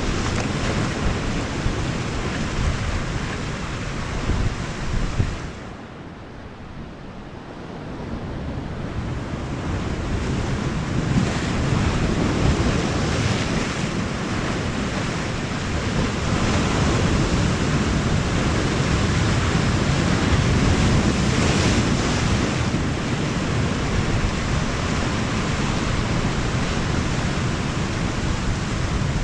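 Sea surf washing against the shore, with wind buffeting the microphone. It drops away briefly about six seconds in, then builds back.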